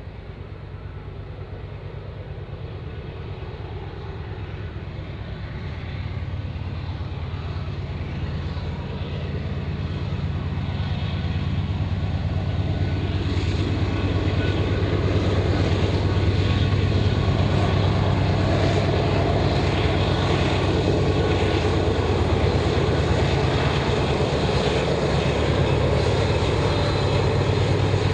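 Diesel locomotives of an approaching train, a steady low engine rumble that grows louder over about the first fourteen seconds and then holds loud and steady.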